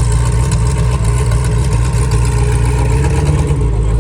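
Hennessy-tuned V8 engine idling with a steady, low rumble.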